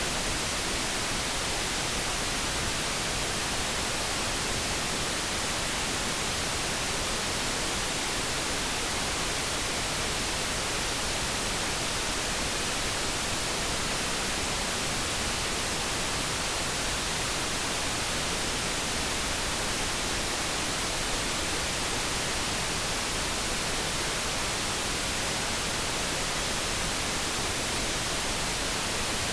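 Light brown noise: a steady, unchanging hiss with no tones or separate sounds in it.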